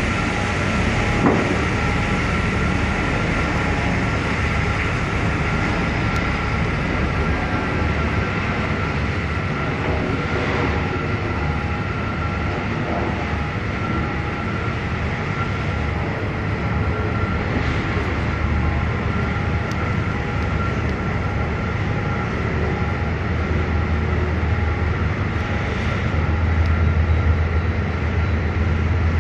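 Austal 40 m catamaran ferry's engines running under way, a steady low rumble with a thin constant whine above it. The rumble grows louder over the last few seconds as the ferry powers up to depart.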